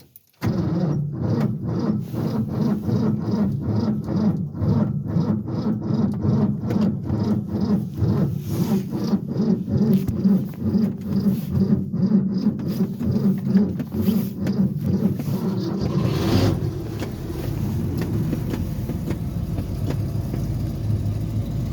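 1967 Ford F100's engine being cranked over by its starter on a cold start with the choke set, in a steady rhythmic chugging. About sixteen seconds in it catches and settles into a steady fast idle.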